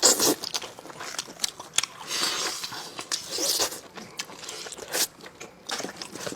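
Close-miked eating: biting into and chewing braised spicy lamb chops, with irregular crunches.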